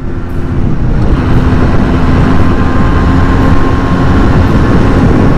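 Motorcycle riding at a steady speed: a steady engine hum under a loud rush of wind noise.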